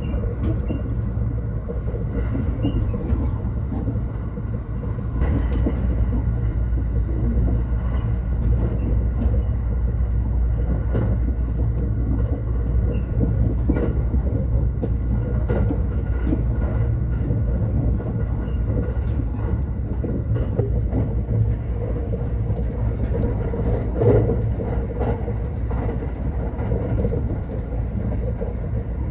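Limited Express Thunderbird electric train running at speed, heard from inside the carriage: a steady low rumble with scattered light clicks, and one brief louder jolt near the end.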